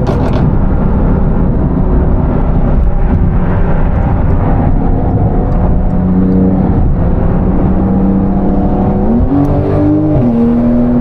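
High-performance car engine running at road speed with a steady drone and road noise. A few sharp cracks come at the very start, and the engine pitch rises about nine seconds in, then settles slightly lower.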